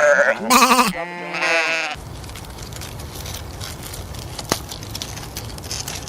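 Bleating: a few wavering calls in the first two seconds. After that there is a steady hiss with a few faint clicks.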